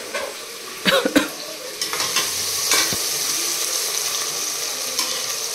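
Chopped tomatoes and onions with whole spices sizzling in hot oil in a pressure cooker as they are stirred with a metal slotted spoon. A few knocks of the spoon against the pot come about a second in, then a steady frying sizzle.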